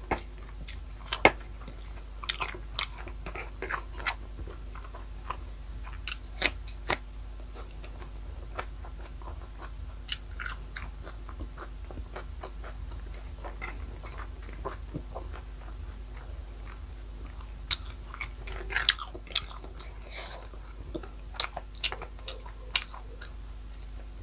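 Close-miked eating sounds: a person chewing and crunching a mouthful of rice and fried pork, with irregular sharp clicks and smacks, a few louder ones at about a second in, around six to seven seconds, and around eighteen to nineteen seconds.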